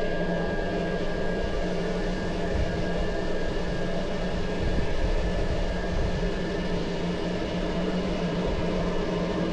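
Steam train pulling out of a station, a steady rumble with a low hum under it.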